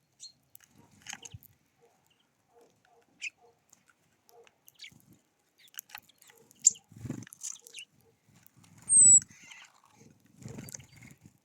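Birds feeding at a seed feeder: scattered pecking taps and clicks, with several low, muffled thumps from birds moving on the feeder, the loudest about nine seconds in. A single short high chirp comes at about the same moment.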